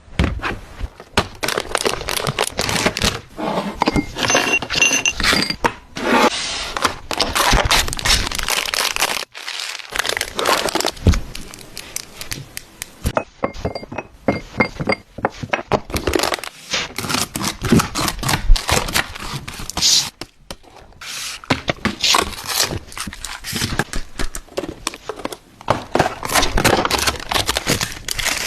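Drinks and snacks being handled and set into a mini-fridge, one item after another: a steady run of taps, knocks, thunks and packaging crinkles.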